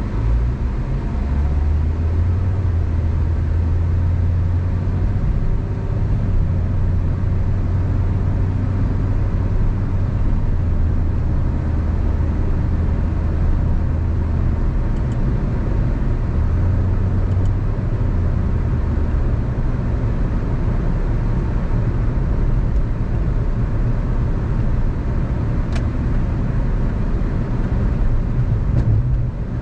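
A car driving along a road: steady engine and tyre rumble, with a deep drone that eases off about two-thirds of the way through.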